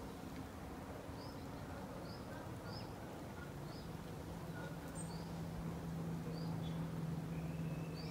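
A small bird chirping: short, high chirps repeated about once or twice a second. Under it is background noise with a steady low hum that comes in about halfway through.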